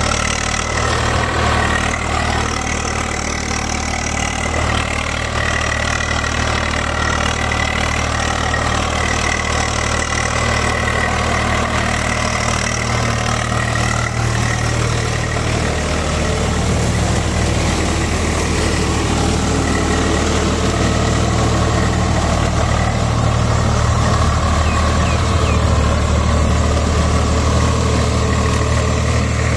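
Swaraj 744 XM tractor's three-cylinder diesel engine running steadily while ploughing, a low, even drone that grows a little louder in the second half.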